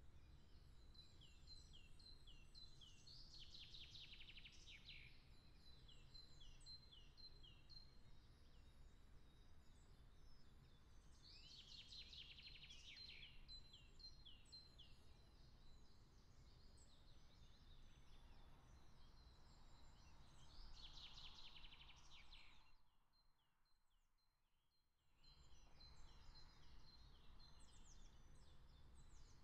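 Faint small-bird song: short chirps repeat throughout, and three quick trills stand out. A low steady background rumble runs underneath, and nearly all sound drops out for about two seconds roughly three-quarters of the way through.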